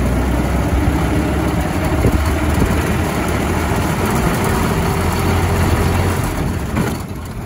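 1910 Ford Model T's four-cylinder engine running with a steady low rumble as the car drives along the road. The sound drops briefly near the end.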